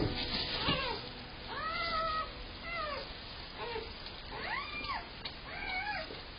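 Newborn German Shepherd puppies crying: about five high, thin squeals, each rising and then falling in pitch, the longest about two and four and a half seconds in.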